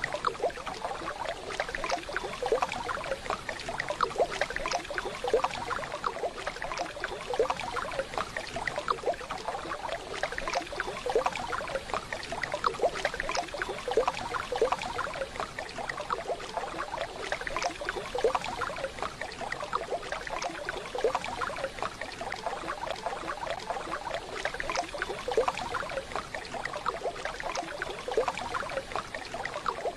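Waterfall: a steady rush of falling, splashing water with a busy, crackling patter.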